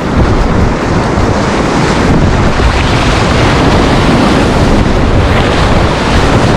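Whitewater of a river rapid rushing in a steady, loud roar, with heavy buffeting on the microphone.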